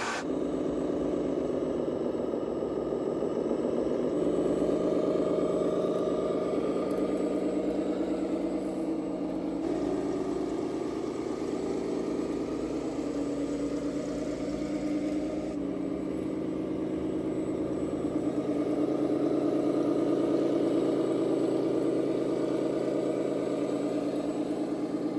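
Radio-controlled scale model vehicle running, with a steady engine-like drone that swells slightly twice.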